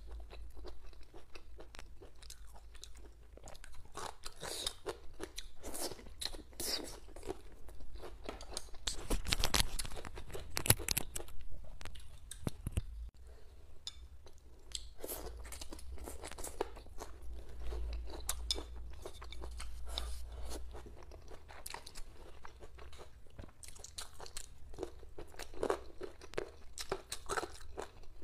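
A person chewing and crunching mouthfuls of boneless chicken feet and pig intestines in chili close to the microphone, with many short wet clicks and crunches. The chewing is loudest about a third of the way in.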